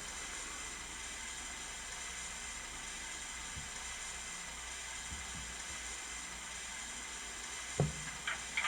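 A steady faint hiss, with a single low thump about eight seconds in and a few light clicks just after it.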